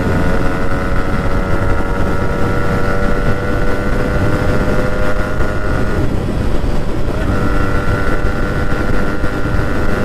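Yamaha RX 100's single-cylinder two-stroke engine running at speed, around 60–70 km/h, where it comes into its power band, under heavy wind and road rush on the microphone. The engine note holds steady, with a brief break about six seconds in before it returns.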